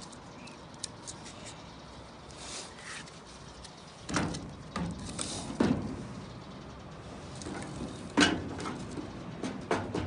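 Irregular knocks and clatters of handled objects, about half a dozen, all in the second half, over a faint steady background.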